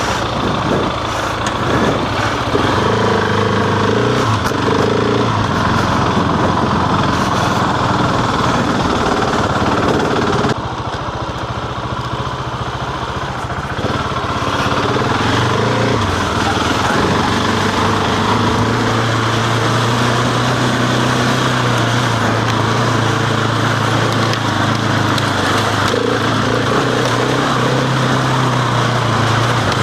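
Husqvarna 701's single-cylinder engine running as the motorcycle is ridden, its note rising and falling with the throttle. It eases off about ten seconds in and picks up again around fourteen seconds. It is heard from a camera mounted on the rider's helmet chin piece.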